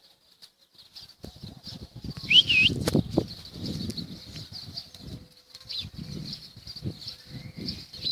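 Birds flapping their wings in repeated short flurries, with a loud high bird call about two and a half seconds in and faint chirping in the background.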